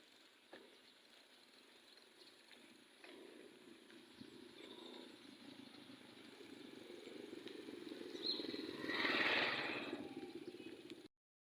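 A motor vehicle's engine passing by, growing louder to a peak about nine seconds in and then fading, with short high bird calls scattered over it. The sound cuts off just before the end.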